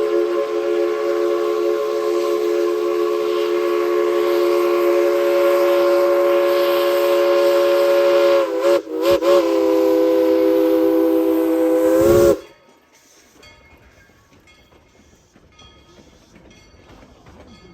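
Steam locomotive #190's chime whistle sounding several notes at once in one long blast, with a quick double break about nine seconds in, cutting off suddenly about twelve seconds in. Faint rattling of the moving train follows.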